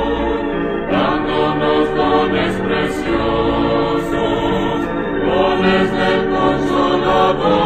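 Hymn music with a choir singing sustained, wordless or unclear notes over the accompaniment.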